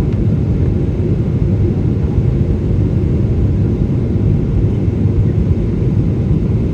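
Steady, loud low rumble of a Boeing 777-300's Rolls-Royce engines and airflow, heard from inside the passenger cabin.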